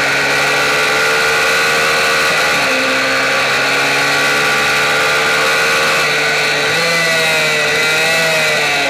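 Onboard sound of a MiniGP racing minibike's engine running hard at high revs, over rushing wind. The pitch holds mostly steady, dips briefly about two and a half seconds in, then rises and wavers up and down near the end as the rider works the throttle.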